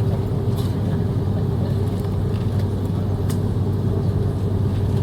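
Airbus A330-300 airliner engines running steadily: an even low hum with a steady mid-pitched tone above it, and a few faint clicks.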